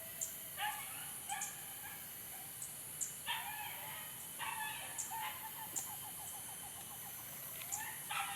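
Animal calls: a series of short pitched calls, each under a second long, with sharp high chirps repeating about once a second.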